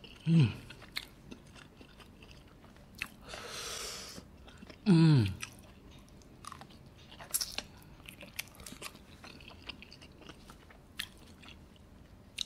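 Close-miked chewing and wet mouth clicks of a man eating cheese-covered dumplings in spicy Samyang sauce, taking a fresh bite partway through. Twice, about half a second in and again about five seconds in, he lets out a short groan falling in pitch, a reaction to the heat of the sauce, with a long breath in between.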